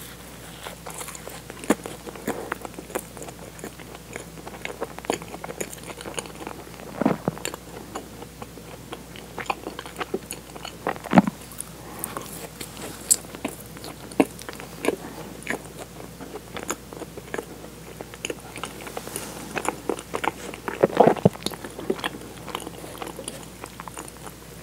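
Close-miked mouth biting and chewing soft sugar-dusted cream-filled doughnuts, with frequent irregular wet clicks and smacks.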